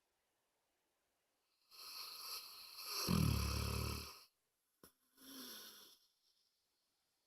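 A dog snoring: one long snore starting about two seconds in that turns to a deep rumble in its second half, then a shorter, quieter snore about five seconds in.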